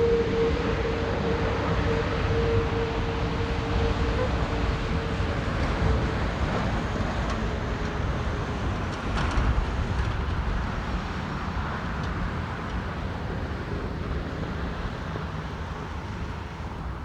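Airbus A330neo jet airliner engines running at taxi power, a low steady rumble and rush with a steady whine that fades out after about six seconds.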